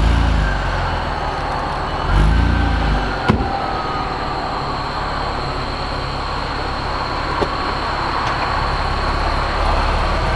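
Turbocharged Saab 9-3 Aero V6 with an upgraded turbo and aftermarket downpipe and mid-pipe, just started: a surge from the exhaust as it catches, a brief rev about two seconds in followed by a sharp click, then a steady idle.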